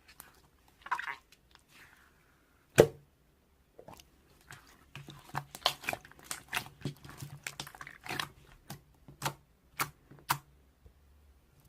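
Irregular crisp clicks and crackles, with one loud snap about three seconds in, then a dense run of them over the middle of the stretch.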